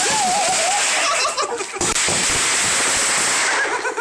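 Firework cake firing: a dense, unbroken crackling and popping, with a wavering whistle in the first second and more short whistles near the end.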